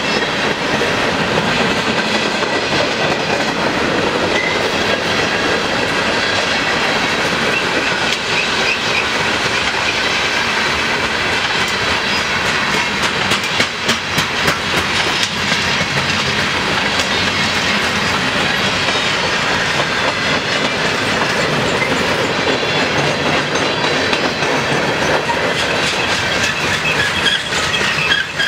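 Cars of a long mixed freight train rolling past close by: a steady rush of steel wheels on rail with rapid clicking as the wheels pass over the rail.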